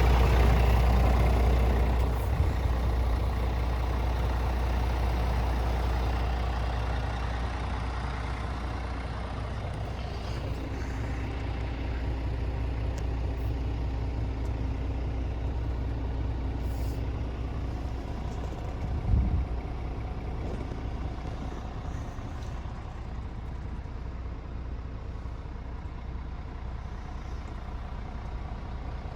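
Scania S450 truck's 13-litre six-cylinder diesel running with a steady low rumble that slowly fades. There is a single thump about two-thirds of the way through.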